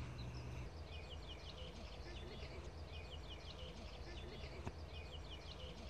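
Faint birdsong: short phrases of a few quick high notes, repeated every second or so, over a steady low rumble.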